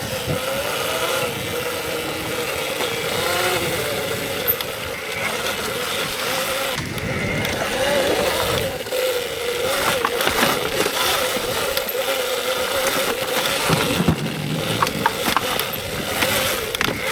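Electric dirt bike riding a trail: the motor's whine rises and falls with the throttle over the rush of tyres and wind, with a few sharp knocks from rough ground near the end.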